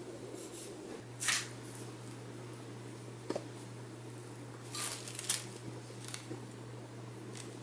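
Handling noises at a table: a few short rustles and a sharp click over a steady low hum.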